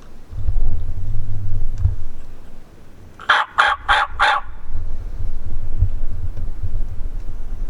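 Wild turkey gobbler gobbling once, a quick rattle of four pulses about three seconds in, over a steady low rumble.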